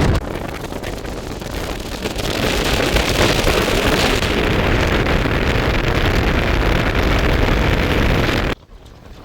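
Steady rushing wind on the microphone with a low rumble underneath; it drops off abruptly near the end.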